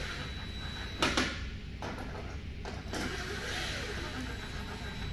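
Short runs of a cordless power screwdriver driving screws into plastic headlight and grille trim, with a few sharp clicks and knocks of the plastic parts.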